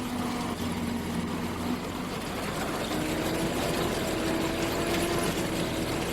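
Engine of wheat-harvest machinery running steadily, its pitch stepping up about halfway through.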